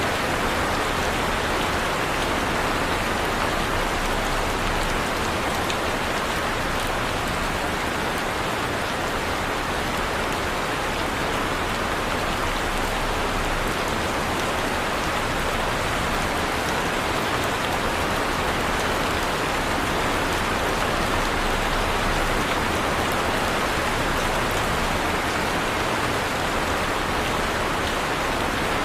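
Heavy rain falling steadily, a dense even hiss with fine patter of drops on a surface.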